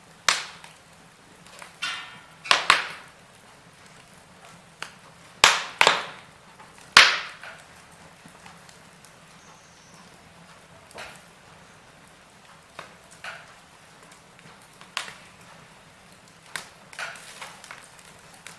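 Fire in a fireplace crackling and popping: irregular sharp pops, the loudest within the first seven seconds, then fainter scattered crackles over a soft hiss.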